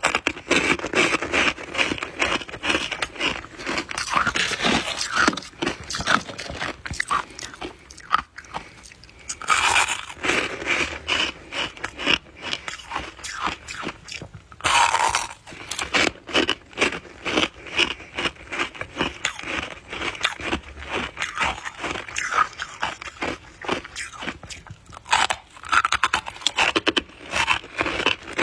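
Soft white ice (freezer frost or shaved ice) being bitten and chewed close to the microphone: dense, rapid crunching, with a couple of longer scraping crunches about a third and halfway through.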